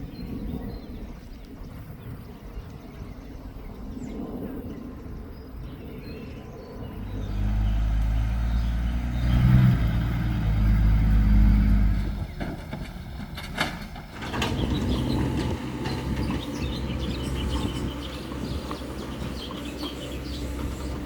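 Excavator's diesel engine running, revving up hard about seven seconds in for several seconds before dropping back to a steady run, with a sharp knock a couple of seconds later.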